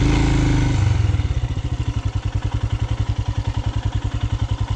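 Royal Enfield Himalayan's single-cylinder engine running at low speed with a steady slow thump of about ten beats a second. In the first second there is a short louder rise in engine speed before it settles back.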